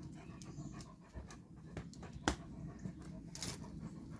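A dog panting steadily, with a few light clicks, the sharpest one about two seconds in.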